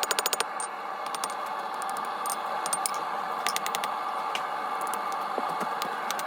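Quick, light hammer taps on hot steel: a fast run of taps right at the start, then scattered single taps and a short cluster about three and a half seconds in, over a steady background hum.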